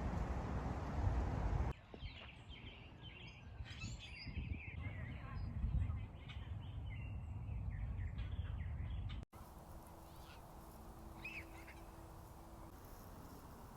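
Small birds chirping and calling, many short quick notes, over a low outdoor rumble. The first couple of seconds are only a steady rushing noise, cut off abruptly; near the end the chirps thin out to a few over a faint hum.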